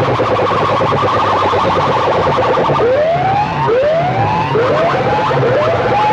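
Loud, overlapping output of competing sound-system speaker rigs: a fast pulsing electronic sound over a repeating low beat. From about halfway in, a siren-like rising whoop effect repeats roughly once a second.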